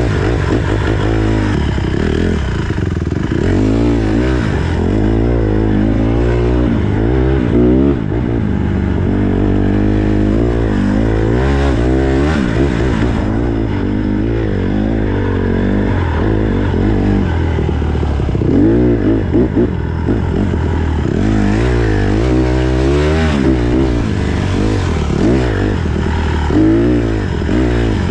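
Honda CRF150R dirt bike's four-stroke single-cylinder engine running under load on a trail ride, its pitch rising and falling again and again as the throttle is opened and closed.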